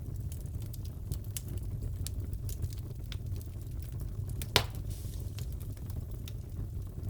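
Wood fire crackling in a fireplace: a low steady rumble with scattered small crackles and one loud pop about four and a half seconds in.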